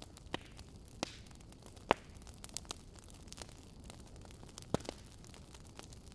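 Wood fire burning in a fireplace: a steady low rush of flame with irregular sharp crackles and pops from the logs, the loudest pop about two seconds in.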